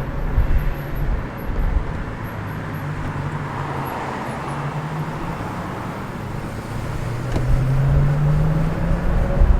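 Silence S01 electric scooter riding on the road, with steady road and wind noise and a low hum that rises in pitch near the end as speed picks up.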